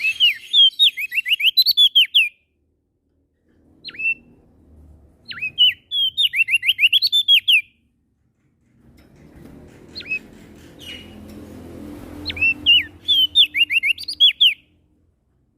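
A prenjak daun songbird singing in three rapid phrases of quick, sharp whistled notes, each phrase a fast run of hooked, chirping notes, separated by short pauses. A faint low rumble sits under the second and third phrases.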